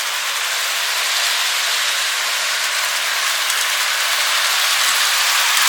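Lionel O scale model train running around the track: a steady hissing whir with no clear beat.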